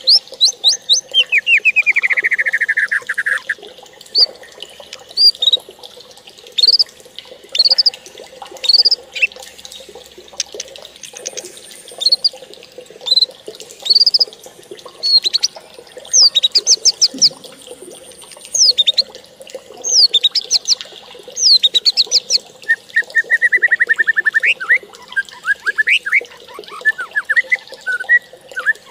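Birds singing: repeated short, high chirps. There is a descending run of notes about a second in and a rapid trill near the end.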